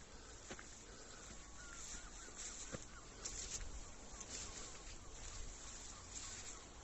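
Faint birdsong: small birds chirping and twittering in short quick notes, over a steady low rumble, with a few soft clicks.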